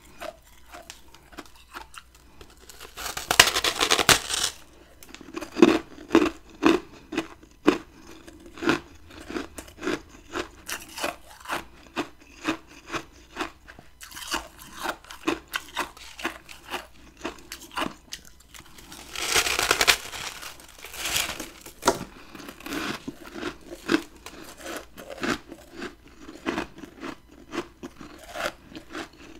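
Close-up eating of freezer frost ice. There are two big bites, about three seconds in and again near the twenty-second mark, each a long, loud, dense crunch. Each bite is followed by chewing crunches at about two a second.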